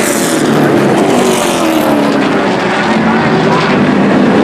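A pack of short-track race trucks running at speed, several engines overlapping, their pitch rising and falling as they go past.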